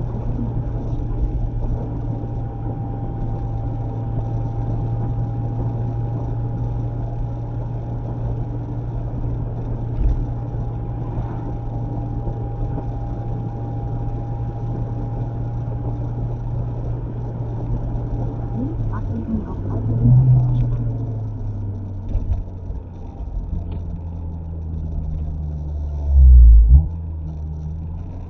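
Mazda MX-5 ND running at a steady cruise, heard inside the cabin: an even engine drone with a faint steady higher tone over it. About two-thirds of the way through the note shifts with a brief rise, then settles into a lower steady drone. Near the end there is one loud, low thump.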